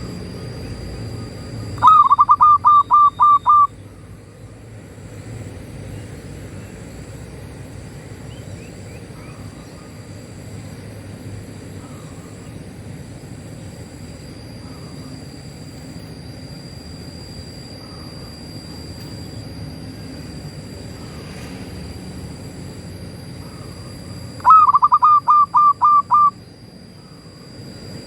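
Zebra dove (perkutut) cooing: a loud phrase of about eight quick, even coos about two seconds in, repeated the same way near the end, with fainter coos in between. A steady high tone and a low rumble run underneath.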